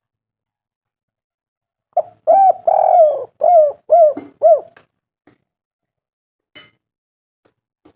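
Spotted dove (tekukur) cooing one song phrase of about six notes, starting about two seconds in and lasting under three seconds. It opens with a short note and two longer, drawn-out coos, and ends with three short, falling coos.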